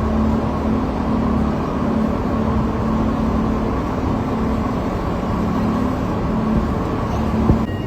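Cable car station machinery running, a steady hum with a low droning tone.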